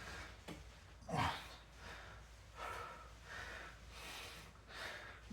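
A man breathing hard under exertion while holding a side plank. There is one loud, partly voiced exhale about a second in, then a run of softer, quicker breaths.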